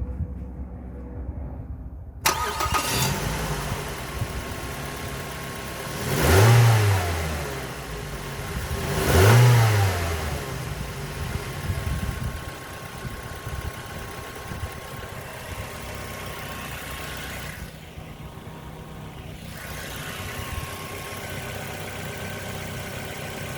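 2008 Mazda 3's four-cylinder petrol engine starting about two seconds in, then revved twice in quick blips, each rising and falling back, and settling into a steady idle. It is a running test of a used engine.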